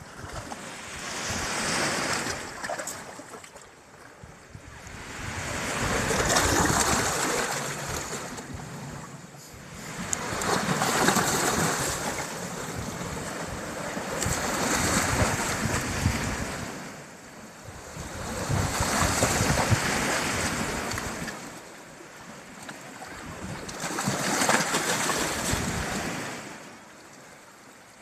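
Baltic Sea waves breaking on the shore, one about every four to five seconds, each surging up and falling away.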